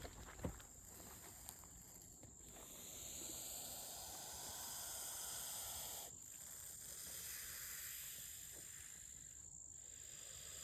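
Eastern hognose snake hissing in two long breaths of about three to four seconds each, the defensive hiss of an agitated snake puffing itself up. Insects chirr steadily behind it.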